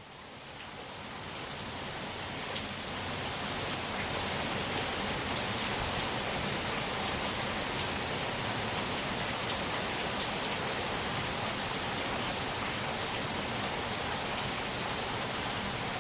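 Steady rain falling, an even hiss with faint scattered drop ticks, fading in over the first few seconds and then holding steady.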